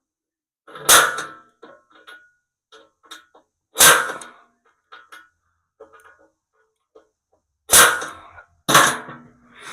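Four loud, sudden knocks with short fading tails, about a second in, near four seconds, and twice close together near the end, with faint small clatter between.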